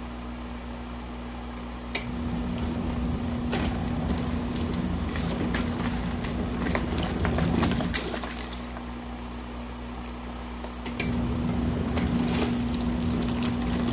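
Compact RV washing machine agitating a wash load, its motor humming under the splash and swish of water. It runs in spells, easing off about eight seconds in and starting up again about three seconds later.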